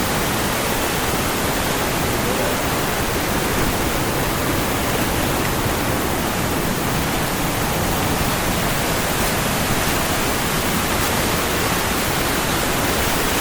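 Waterfall and fast-flowing stream water rushing, a loud, steady, even roar of white water.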